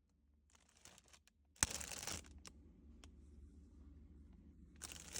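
Handling noise in a refrigerator: one sharp knock about a second and a half in, then a faint low hum and quiet rustling that grows louder near the end.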